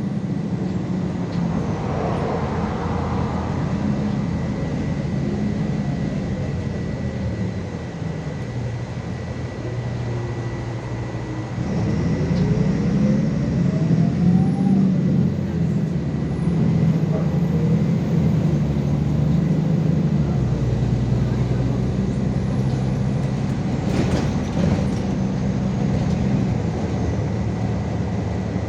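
MAZ 216 articulated city bus on the move, heard from inside the cabin: a steady engine and road drone. About twelve seconds in it grows louder, with a whine rising in pitch as the bus pulls away.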